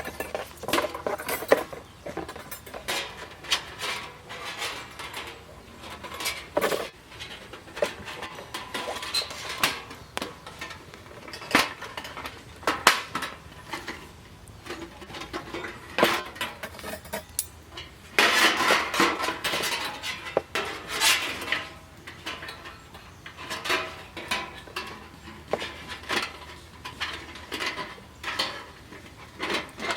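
Light metal gear being handled, clinking and clattering in irregular sharp knocks, with a few seconds of denser scraping and rustling past the middle.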